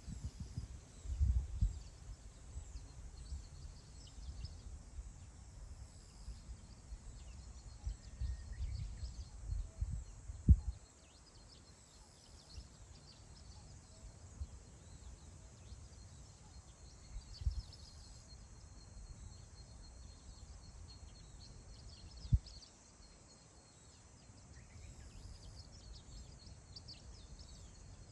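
Wind gusting over open grassland and buffeting the microphone as low rumbles, strongest in the first ten seconds, with a couple of sharp wind thumps. Faint high bird chirps come through the wind.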